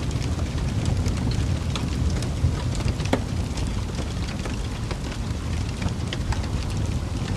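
Wood fire burning in a fireplace: a steady low rumble of flames with frequent irregular pops and crackles of burning logs.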